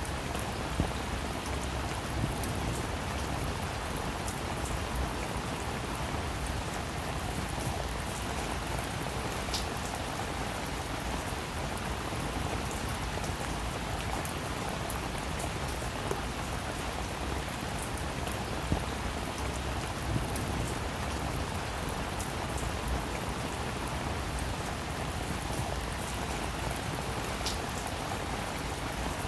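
Steady rain falling, with individual drops ticking sharply now and then over the constant patter of rain on a surface.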